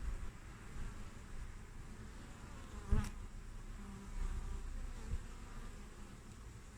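Honeybees (Apis mellifera) buzzing at a hive entrance, with individual bees swelling louder as they fly near. A brief loud burst comes just before halfway.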